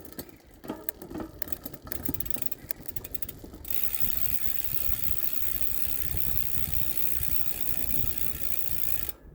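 Rear freehub of a Nukeproof Neutron V2 wheel with 36 points of engagement, its pawls ticking rapidly as the wheel freewheels. About four seconds in the clicks run together into a steady buzz, which cuts off suddenly near the end.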